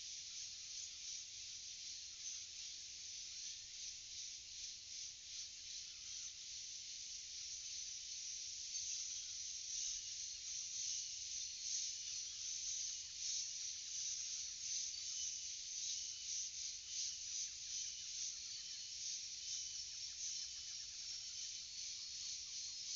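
Dense forest insect chorus: a steady high buzzing with fast pulsing, growing a little louder about halfway through, with a faint short high note repeating in the second half.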